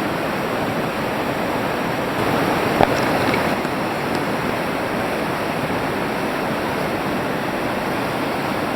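Waterfall's rushing water, a steady, unbroken rush of noise.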